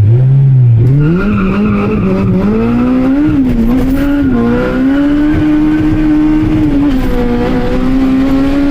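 K24 2.4-litre inline-four in a K-swapped Honda Civic accelerating hard through the gears: the revs climb about a second in, dip briefly twice at the shifts, then hold high and steady. A hiss runs under the engine, the tires likely squealing.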